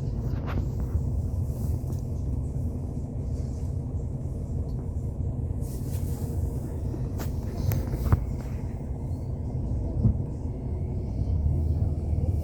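Interior of a Hyundai Universe coach on the move: a steady low rumble of the diesel engine and road noise, with a few brief clicks or rattles, the clearest about eight and ten seconds in.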